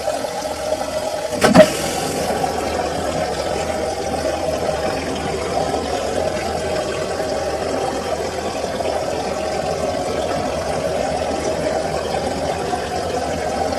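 Samsung washing machine running with a steady rush of water through it. A short, sharp knock sounds about one and a half seconds in.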